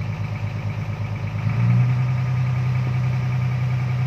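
Vehicle engine idling with a throbbing low hum that, about one and a half seconds in, turns louder and smoother and then holds steady.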